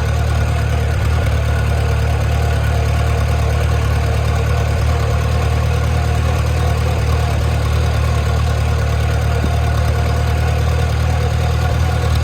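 1954 Farmall Super C's four-cylinder engine running steadily at low throttle as the tractor travels along in third gear.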